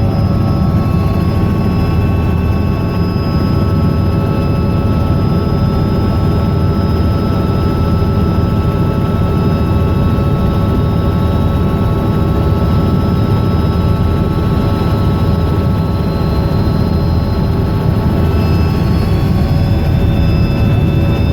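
Robinson R66 helicopter's turbine engine and rotor running steadily: a dense low drone with thin, steady high-pitched whine tones over it.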